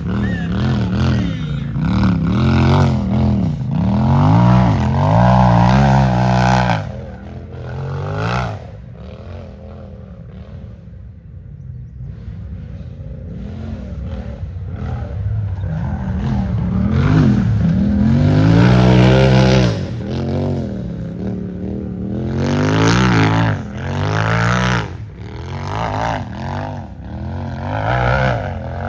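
Race UTV engine revving hard in repeated bursts, on and off the throttle, as it climbs. It eases to a lower drone about eight seconds in, builds back up to a peak around nineteen seconds, then revs in short sharp bursts near the end.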